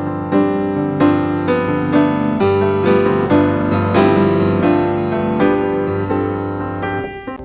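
Background piano music, a run of single struck notes that stops abruptly near the end.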